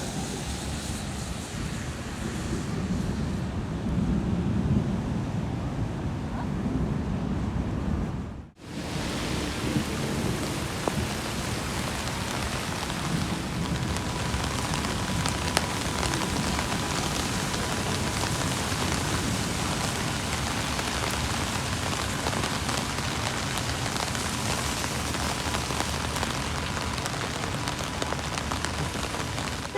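Rain falling steadily: a dense hiss dotted with the ticks of drops striking surfaces, with a brief cut about eight seconds in.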